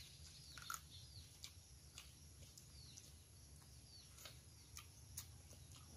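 Near silence, with faint scattered clicks of chewing and smacking on chicken feet and a few faint short bird chirps.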